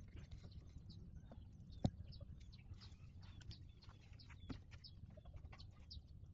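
Newborn puppies squeaking faintly, many short high squeaks scattered throughout, with a single sharp click about two seconds in.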